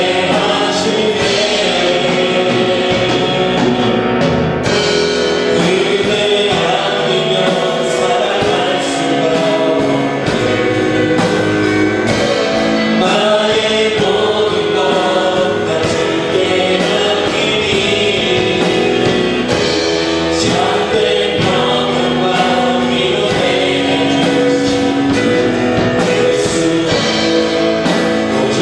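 A worship song sung by many voices together with a band, over a steady beat.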